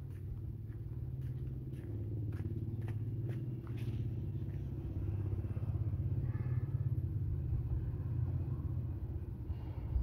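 A motor vehicle engine running with a low, steady rumble. Faint sharp ticks come in the first few seconds.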